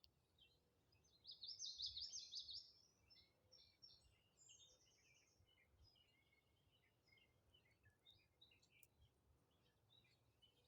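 Faint wild birdsong: a rapid, bright trill about a second in, then scattered shorter chirps and calls.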